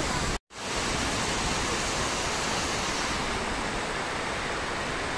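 Heavy rain pouring down as a steady, even hiss. It drops out completely for a moment about half a second in.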